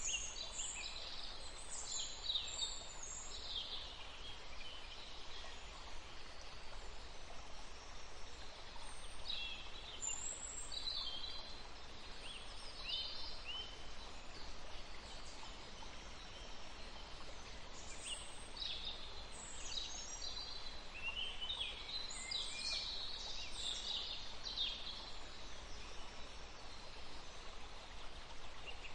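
River water running steadily, with small birds singing over it in several short bursts of quick high chirps and trills, busiest at the start, around ten to thirteen seconds in, and again around eighteen to twenty-four seconds in.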